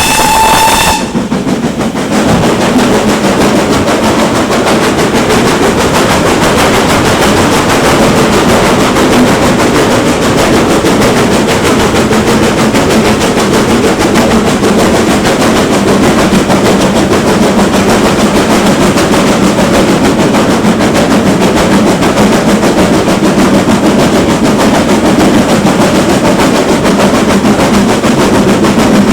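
GWR Manor-class steam locomotive: a short whistle blast about a second long, then a loud, steady, rapid exhaust beat as the engine works hard.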